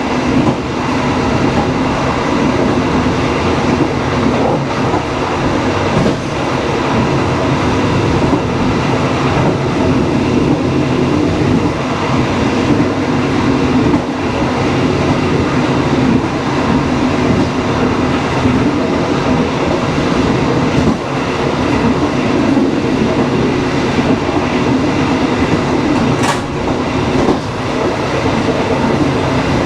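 Passenger train running at speed: a steady loud rumble with wheels clacking over the rail joints. A brief high-pitched sound comes near the end.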